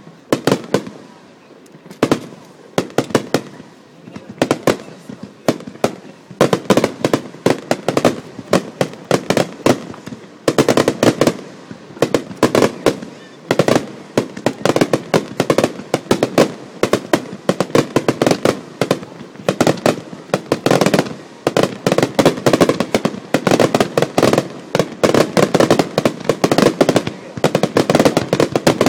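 Aerial fireworks shells bursting in rapid succession. The bangs are spaced out at first and pile up into a near-continuous barrage after the first few seconds.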